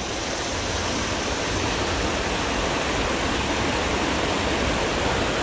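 Steady rushing of a creek's flowing water, an even hiss with no breaks.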